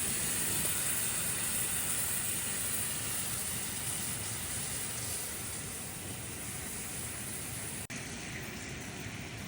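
Steady hissing and sizzling of donuts frying in oil on a gas camping stove turned down low. The sound cuts out for an instant near the end.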